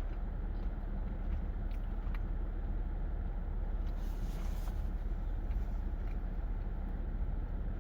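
A steady low rumble throughout, with a few faint ticks and a brief rustle about four seconds in.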